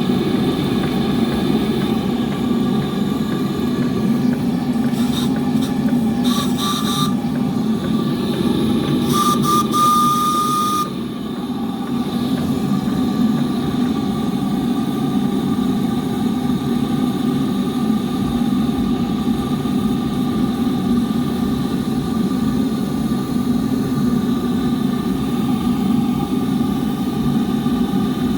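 3.5-inch scale twin-cylinder live-steam traction engine running steadily, its whistle blowing twice: a short toot about six seconds in and a longer blast around nine to eleven seconds in.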